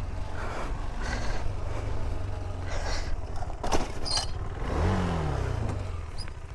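Motorcycle engine idling steadily, with a few light clicks; about five seconds in, an engine note briefly rises and then falls away in pitch.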